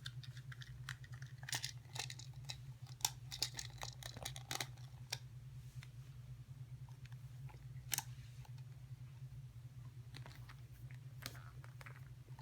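Handling noises as a small toy puppy is put into its carrier bag and tried on a doll: scattered light rustles and clicks, busiest in the first few seconds, with one sharp click about eight seconds in, over a steady low hum.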